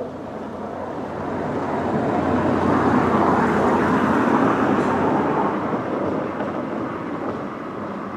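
Train running along the track, a rumbling noise that swells to its loudest about three to five seconds in and then fades.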